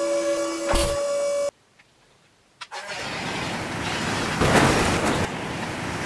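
An engine-starting sound, a noisy rush that swells up after about a second of silence and is loudest near the end. Before the silence there are steady held tones with a few clicks.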